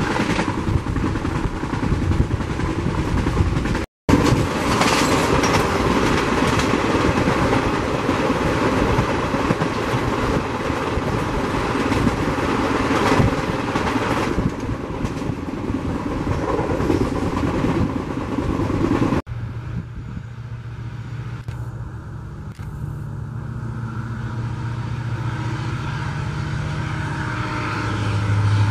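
Express train coaches rushing past close by at speed: a loud, dense rush of wheels on rail, with a brief dropout about 4 seconds in. Near the end of the first two-thirds it cuts off abruptly to a quieter steady low hum, which slowly grows louder.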